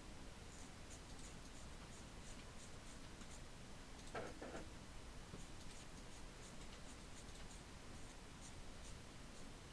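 Quiet hand work with a small paintbrush on a miniature: faint light scratching and small ticks. There are two short taps a little after four seconds in.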